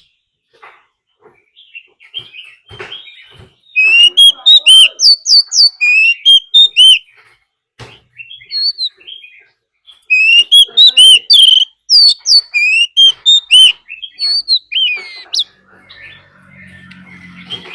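Oriental magpie-robin singing loud, rapid phrases of repeated whistled notes in two bouts, with softer chips and calls between them. A faint low hum comes in near the end.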